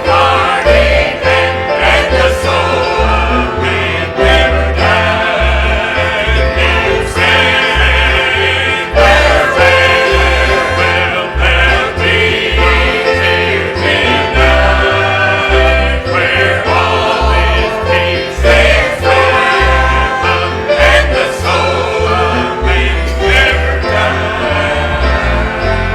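Church choir singing a gospel song with instrumental accompaniment and a steady, pulsing bass line.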